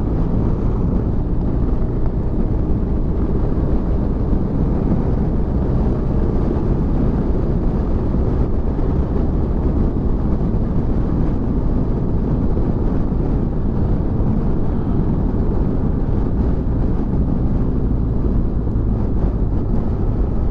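Motorcycle being ridden at steady road speed: a low engine drone mixed with wind rushing over the helmet microphone.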